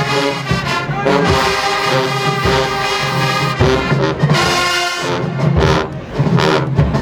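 HBCU-style marching band brass section playing loud sustained chords, with trombones and trumpets over bass drum hits.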